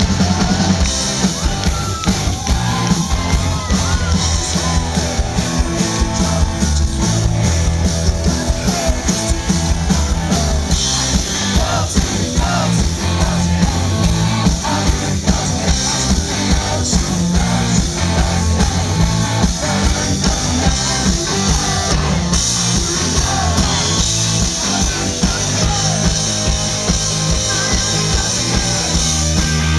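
Live rock band playing an upbeat song through a PA: singing over amplified guitars, bass and a steady drum beat.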